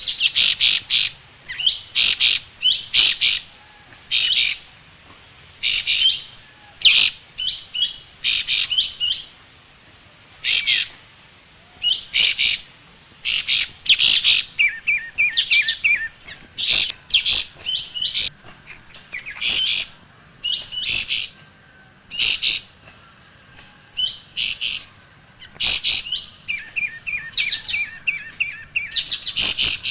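Kapas tembak songbird singing: loud bursts of sharp, high chirping phrases, roughly one a second with short pauses between them, and now and then a quick rattling trill pitched lower.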